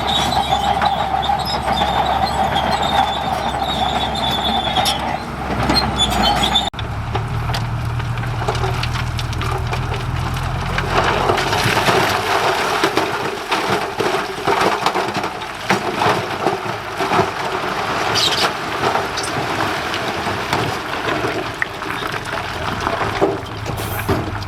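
Crawler bulldozer working: a steady high squeal from the running gear for about the first five seconds, then, after an abrupt cut, the diesel engine drones with continuous clanking and rattling of the tracks.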